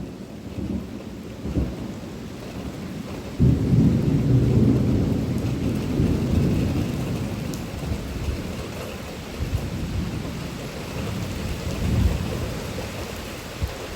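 Steady rain with thunder: a sudden loud clap about three and a half seconds in that rumbles low and dies away slowly over several seconds, with fainter rumbles around it.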